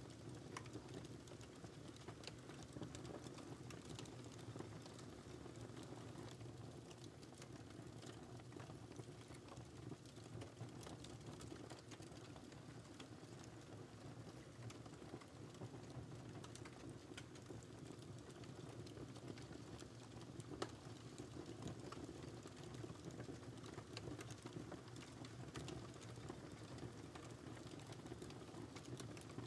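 Wood fire crackling steadily, many small pops and snaps over a low rumble from the burning logs, with one sharper pop about two-thirds of the way through.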